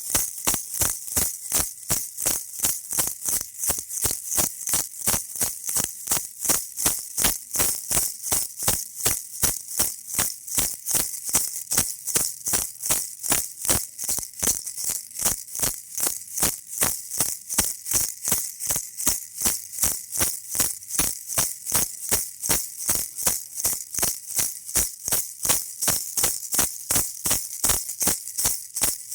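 Baby rattle shaken in a steady rhythm, about three shakes a second, each shake a bright, high rattle of beads.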